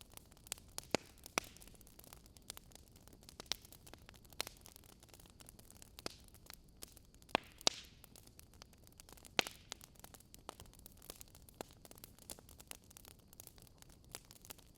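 Burning wood logs crackling: irregular sharp pops and snaps over a faint hiss, with a few louder pops about a second in and around the middle.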